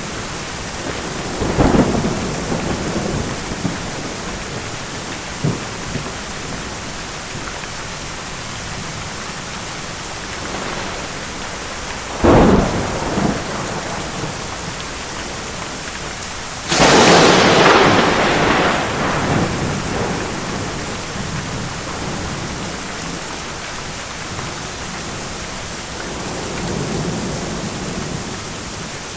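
Thunderstorm: steady heavy rain with sharp thunderclaps about a second and a half in and about twelve seconds in, and a longer, louder crash of thunder at about seventeen seconds that rolls away over a few seconds, with a softer rumble near the end.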